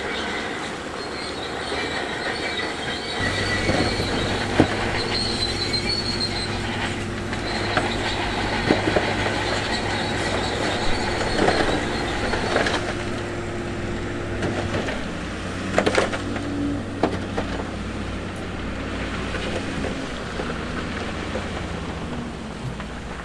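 Shantui DH17C2 crawler bulldozer at work: its diesel engine running steadily under load, with the steel tracks clanking and squealing and sharp knocks of stones. The engine note steps up about three seconds in and changes again about halfway through.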